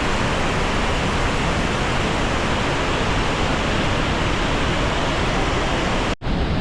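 Steady, loud rushing roar of the Devil's Throat waterfall at Iguazú Falls. The sound drops out for a split second near the end, where the recording cuts.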